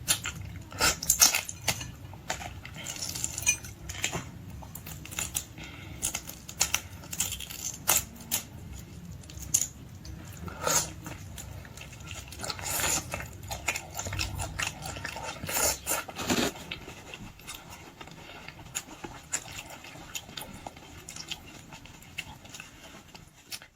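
Eating boiled shrimp and lobster: irregular biting, chewing and crackling of shell, with scattered clicks and clinks of dishes and utensils.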